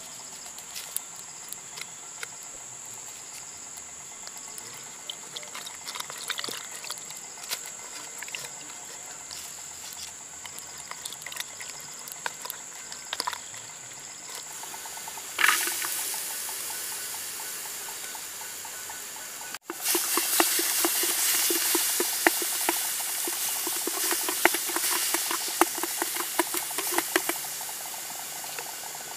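Garlic, shallots and green chilies sizzling in hot oil in a wok, a loud hiss full of crackles, from a little past halfway on. Before that, a steady high-pitched whine with light taps of a bamboo stick against a coconut-shell bowl.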